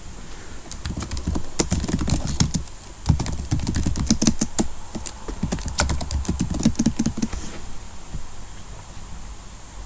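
Rapid, irregular clicks and taps, several a second, with dull knocks underneath. They start about a second in and stop a couple of seconds before the end.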